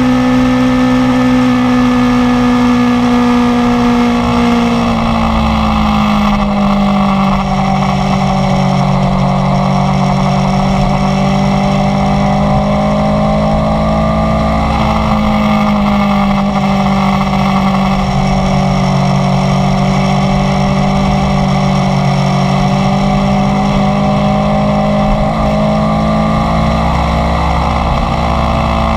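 Inline-four sport motorcycle engine running at a steady cruise. The engine note eases down about five seconds in, then holds with small rises and falls in revs.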